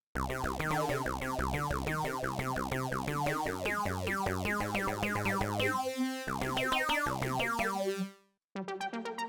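PolyMax software synthesizer preset playing a fast sequence of rapid repeating notes over a shifting bass line. It stops about eight seconds in, and a different patch with quick short notes starts just before the end.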